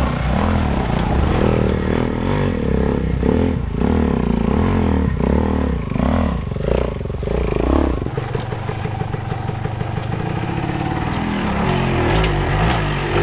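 Dirt bike engine revving up and down repeatedly under riding, then settling to a steadier, even beat at lower revs about eight seconds in.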